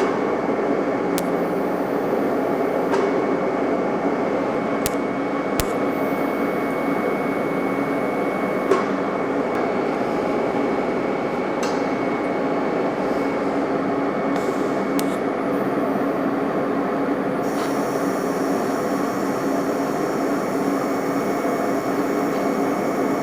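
TIG welding arc running steadily on black steel pipe and plate: a continuous buzzing hiss, with a few short clicks, one louder about nine seconds in.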